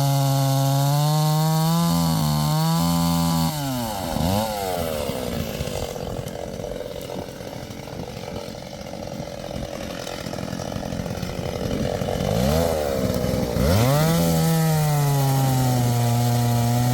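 Chainsaw engine running at high speed, its pitch dropping about four seconds in to a lower, rougher run, then climbing back to full speed near the end.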